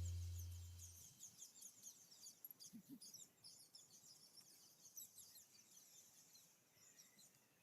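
Background music fading out in the first second, then faint, scattered high chirping of small birds.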